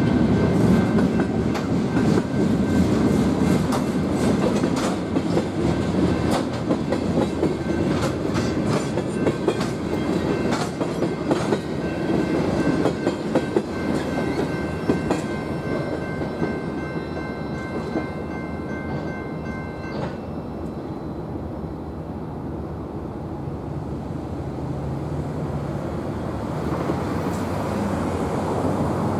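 Freight train cars rolling through a grade crossing, wheels clattering over the rails, while the crossing's GS Type 2 electronic bell rings. About two-thirds of the way through, the bell stops abruptly as the train clears, leaving a quieter steady rumble.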